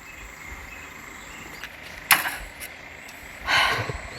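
Steady chirring of insects, with a single sharp click or knock about two seconds in and a short rustling swish near the end.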